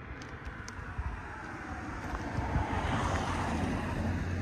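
Mercedes C63 AMG's 6.2-litre V8 running and getting louder through the first half, then settling into a steady low drone.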